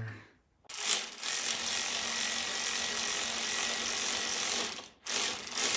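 A ratchet whirring as it runs in the throttle-body bolts: one long run of about four seconds, a brief stop, then a second run starting about five seconds in.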